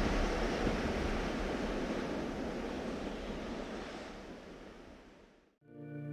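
Steady hiss of rain that fades out over about five seconds to silence, then music with held notes begins near the end.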